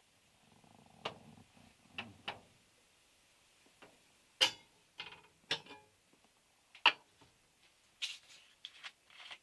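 Irregular light clicks and knocks, loudest about four and a half and about seven seconds in, with a faint low hum in the first two seconds.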